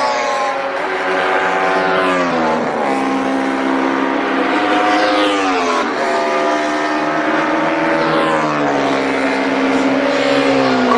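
Racing motorcycle engines at high revs, their pitch falling sharply about four times and holding steady between the drops.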